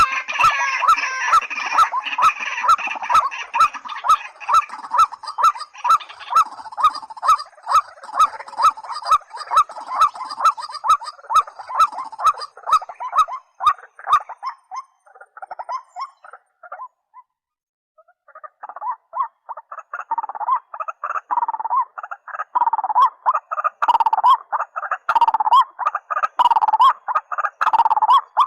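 Repeated calls of rails (white-breasted waterhen or watercock) from a call-playback recording, about two calls a second, with a regular clicking through it. The calling fades out past halfway, stops briefly, then starts again.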